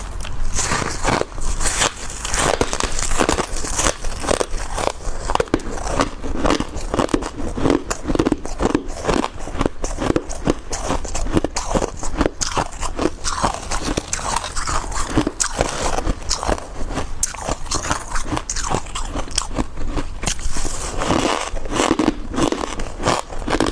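Someone biting and chewing chunks of powdery freezer frost: dense, continuous crisp crunching.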